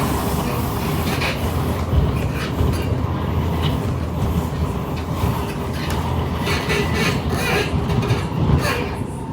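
Inside an SMRT C151 metro train running along the track: a steady low rumble with scattered clicks and rattles, easing off slightly near the end.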